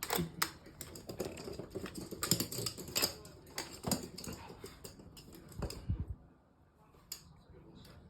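Quick, irregular clicks and taps of a toy poodle moving about on a hard floor, with a dull thump about five and a half seconds in; it goes quieter after that.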